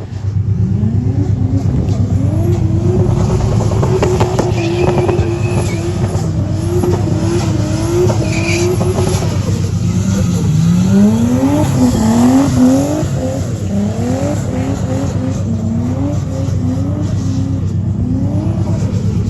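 Car engine being revved hard, its pitch climbing and dropping again and again, faster and choppier in the second half, over a steady low drone.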